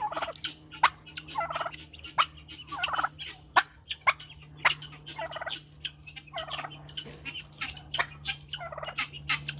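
Turkeys calling in short rattling bursts, about one a second, with sharp clicks in between.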